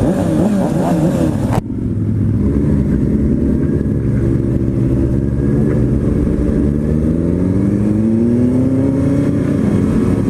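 Motorcycle engines revving, the pitch swinging quickly up and down for the first second and a half. Then an abrupt change to a steady engine note that climbs slowly in pitch between about six and nine seconds in as the bike accelerates.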